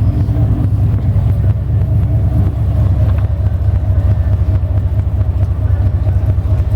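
Twin diesel engines of a large motor yacht idling, a steady low rumble with a faint constant hum above it.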